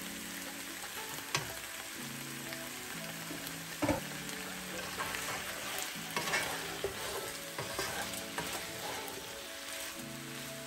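Chicken thighs with diced peppers and onions sizzling as they fry in a pan. A couple of sharp knocks come in the first four seconds, and from about halfway a wooden spatula scrapes through the pan as the pieces are stirred and turned.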